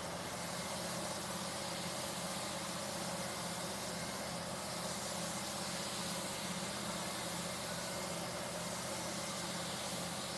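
Steady hiss of a compressed-air spray gun with a low machine hum underneath, typical of spraying primer with a compressor running.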